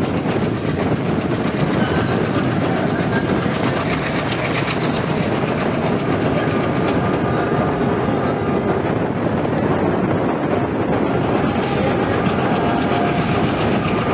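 Passenger train running steadily at speed, heard from on board: a continuous rumble of wheels on the rails with a rapid clatter over the track.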